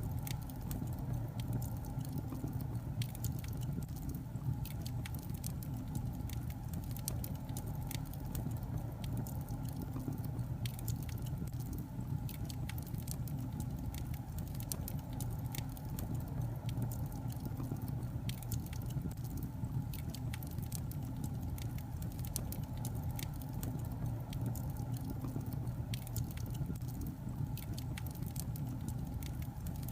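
Burning wood logs in a fireplace crackling, with frequent irregular sharp pops and snaps over a steady low rumble of the fire.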